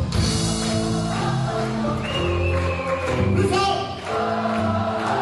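A live band playing, with singing over sustained notes and a steady bass.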